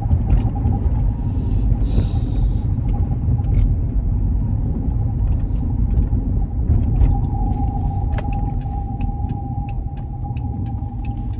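Ex-police Dodge Charger driving, heard from inside the cabin: a steady low engine and road rumble with a thin, steady whine over it.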